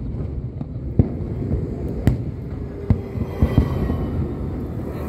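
Aerial fireworks bursting: a string of sharp bangs, roughly one a second, over a steady low rumble.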